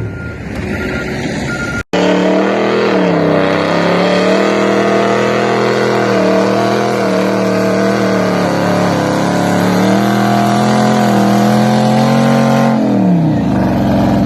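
Truck's 8.1 L Vortec big-block gasoline V8 working hard under load, held at high, nearly steady revs for about ten seconds, then the revs fall away near the end as it comes off the throttle. A brief dropout in the sound about two seconds in.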